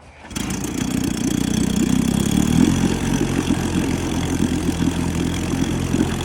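1956 Johnson 7.5 hp two-stroke outboard motor starting about a third of a second in, then running steadily with its lower unit in a test barrel of water. It runs on a rich 16-to-1 fuel mix after sitting unused for a few weeks.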